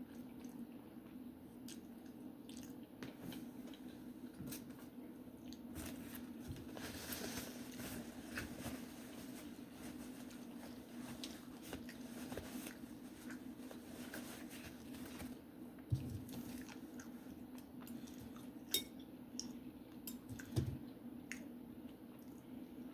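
Someone chewing and squishing food, with many small wet clicks, from eating a creamy garlic butter seafood boil. Three sharp clicks stand out in the second half, like utensils or shells knocking, over a steady low hum.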